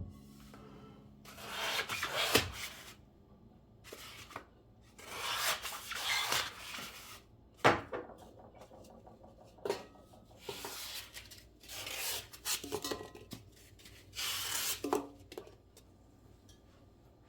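Household cleaning noises: several bursts of rubbing, each one to two seconds long, with a few sharp knocks in between.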